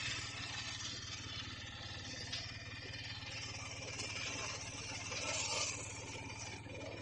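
Piaggio Ape auto rickshaw's single-cylinder engine running steadily on the move, a fast low throb, under a steady hiss of rain and road noise.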